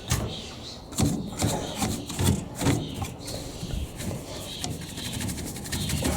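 Irregular knocks and scrapes of hands working on a tumble dryer's panels and parts, followed near the end by a quick run of clicks.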